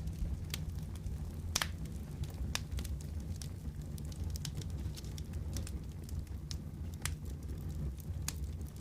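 Wood fire crackling in a fireplace: a steady low rumble of flame with irregular sharp pops and snaps, one or two a second.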